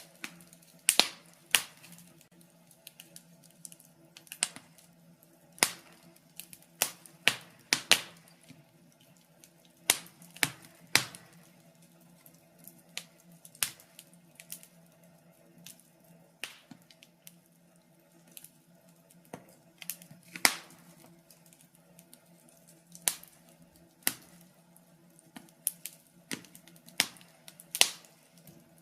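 Wood fire in a fireplace crackling: irregular sharp pops and snaps, some close together, over a faint steady low hum.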